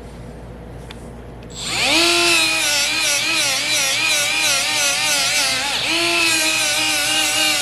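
Die grinder spinning up about a second and a half in, then grinding on a cast iron weld, its pitch wavering as the load changes; it drops briefly near six seconds and comes back up to speed.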